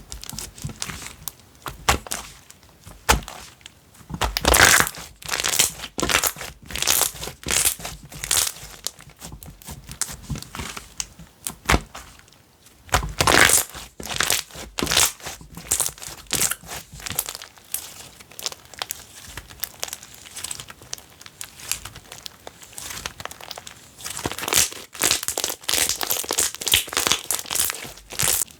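Slime being squished, stretched and poked by hand: irregular sticky crackles and small pops, coming in denser, louder clusters about four, thirteen and twenty-five seconds in.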